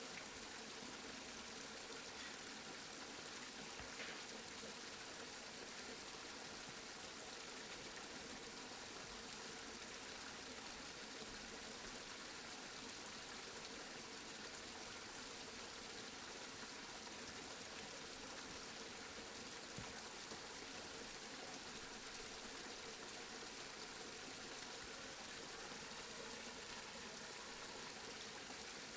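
Steady rain, an even hiss of falling water that does not change.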